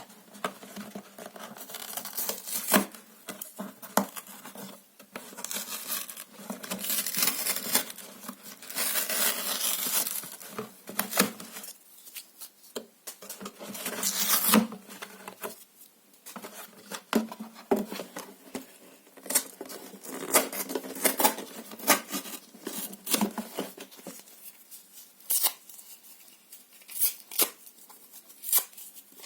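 Paper and cardboard being torn by hand, with long drawn-out rips and many short sharp tears and crackles in a small room.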